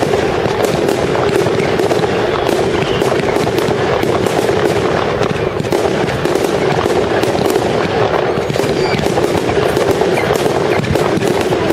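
Fireworks display going off, with a dense, unbroken run of rapid cracks and bangs.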